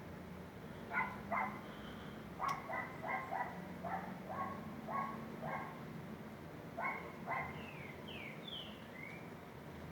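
A dog barking, in several short runs of barks about two or three a second, over a steady background hiss. Near the end come a few short sliding high calls.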